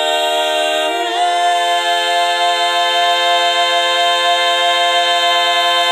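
A cappella choir singing a long held chord on the words "never end", moving to a new chord about a second in.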